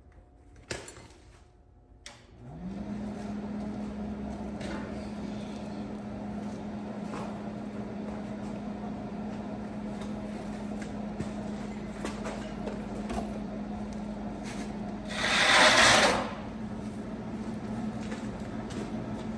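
A welder being switched on: a couple of clicks, then its cooling fan spins up with a short rising whine and settles into a steady hum. About fifteen seconds in, a loud hiss lasts about a second.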